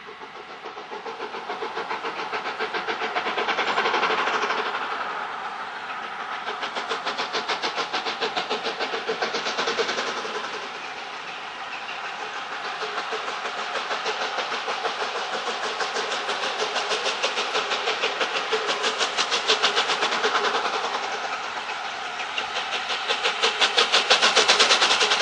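LNER A4 Pacific steam locomotive 60007 Sir Nigel Gresley and its train on the move: a fast, even pulsing rhythm that builds over the first few seconds, then swells and fades again and again.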